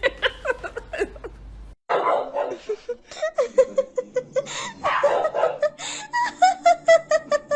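People laughing in quick repeated bursts. The sound cuts out for a moment just under two seconds in, and a longer run of rapid, high laughter follows.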